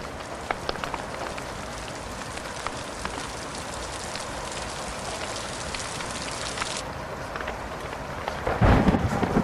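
Steady rain hiss with scattered sharp crackles, then a loud thunderclap that breaks in with a deep rumble near the end.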